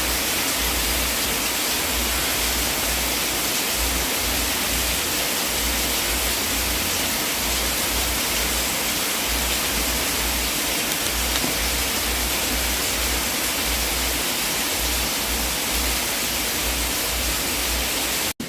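Fireplace fire ambience: a steady, even hiss with an uneven low rumble underneath and hardly any crackles. It cuts out for an instant just before the end and switches to a quieter hiss.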